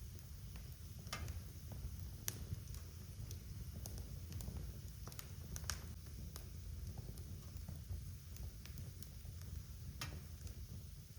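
Wood fire crackling in a fireplace: irregular sharp pops and snaps over a low steady rumble of the burning logs, a few pops louder than the rest.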